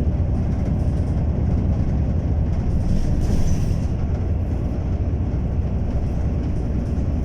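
Steady low rumble of a moving bus heard from inside the cabin: engine and road noise.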